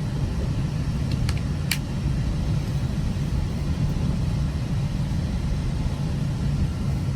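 Steady low rumble of a moving GO Transit commuter train heard from inside the passenger coach, with two brief clicks about a second and a half in.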